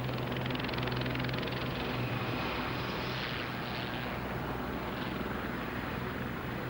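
Helicopter in flight: turbine engine whine and rotor noise, with the high whine falling in pitch about three seconds in.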